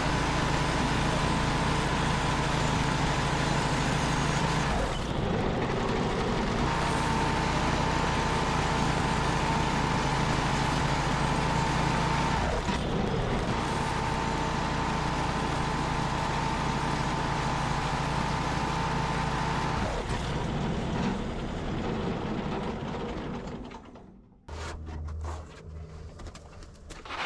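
Portable sawmill running and sawing through a honeylocust log, a steady engine note with a constant high whine. It stops about 24 seconds in.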